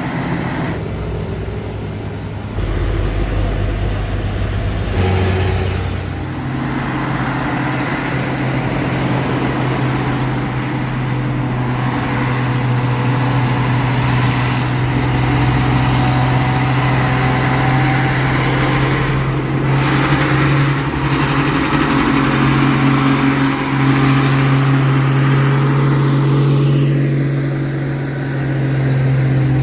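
Diesel truck engine running hard under load, with a deep rumble early on and then a steady, pitched engine note that steps up about five seconds in and holds with small rises and dips.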